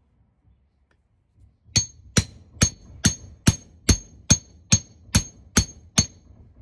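Eleven evenly paced hammer blows on metal, about two a second, each with a short metallic ring: a Mark 1 Mini's suspension trumpet being hammered to free it from its stuck rubber spring cone.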